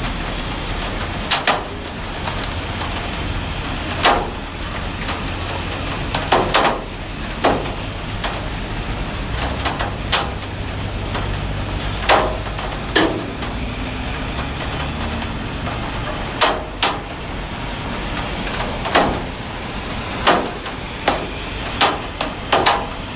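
Heavy rain falling with a steady hiss, broken by irregular sharp taps on a hard surface every second or two.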